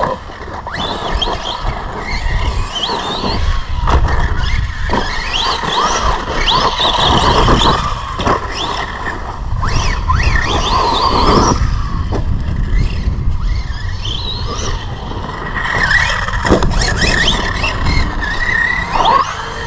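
Brushless electric motor of a 3S radio-controlled monster truck whining up and down in pitch as it is throttled on and off again and again.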